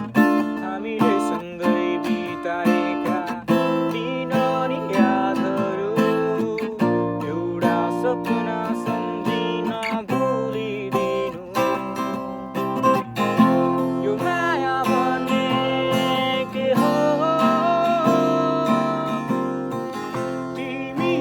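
Music led by strummed acoustic guitar, with a melody gliding over the chords.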